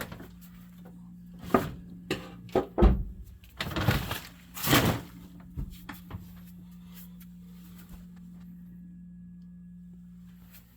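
Several knocks and short scraping noises of things being handled and moved, over a steady low hum that stops near the end.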